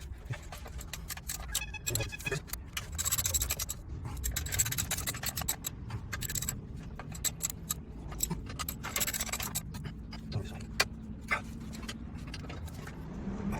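Metal tools and parts being handled: irregular clicks, clinks and scrapes, with a ringing metal clink about two seconds in, over a steady low rumble.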